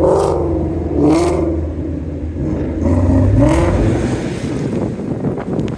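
Car engine revving, its pitch rising and falling several times, over a deep low rumble.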